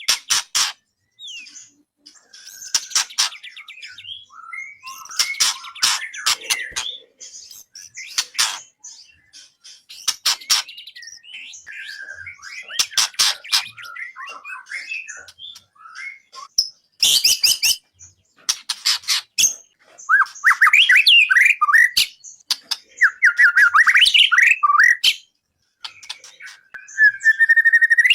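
Songbird singing a long, varied song of rapid trills, clicking bursts and sweeping whistled notes, with a run of fast repeated falling phrases near the end that are the loudest part.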